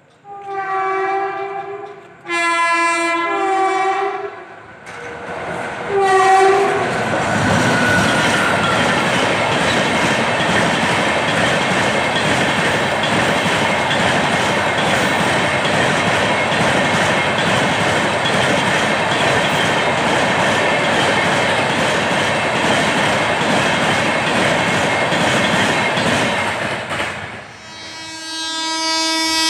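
Electric locomotive horn sounding in three blasts, then a high-speed passenger train passing with a loud, steady rush of wheel and coach noise for about twenty seconds; near the end the horn sounds again.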